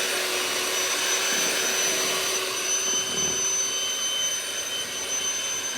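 Electric kitchen mixer running steadily on its first speed setting, its beaters working red velvet cake batter, with a steady high motor whine.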